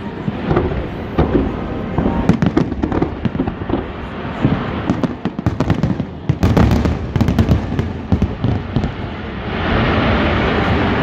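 A fireworks display heard from the riverbank: a rapid, irregular string of shell bursts, low booms mixed with sharp cracks. Near the end a steadier wash of sound takes over, with music coming up.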